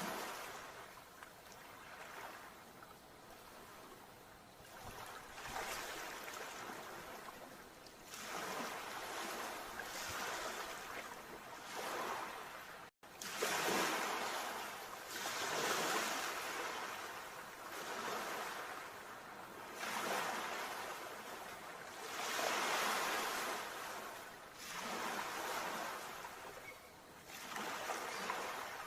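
Sea waves washing onto the shore, a hiss of surf that swells and falls back every two or three seconds. There is a split-second dropout about thirteen seconds in.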